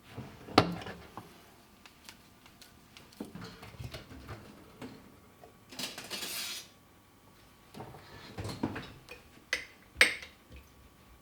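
Dishes and utensils being handled: scattered clinks and sharp knocks as things are set down, with a short hiss lasting about a second midway.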